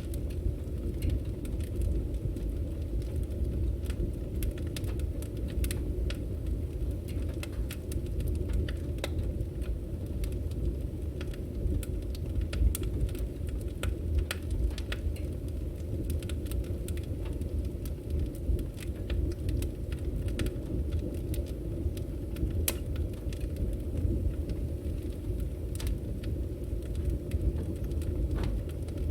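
Burning firewood crackling, with frequent sharp pops and snaps over a steady low rumble of the fire.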